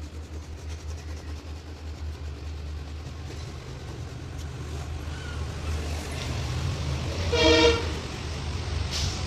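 Steady low rumble of road traffic or a running vehicle, with a vehicle horn honking once, briefly, about seven and a half seconds in.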